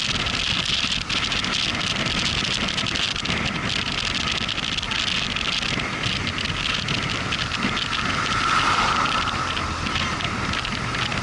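Motorcycle riding at road speed: steady engine, road and wind noise on the microphone, with a tone that rises in level about eight seconds in.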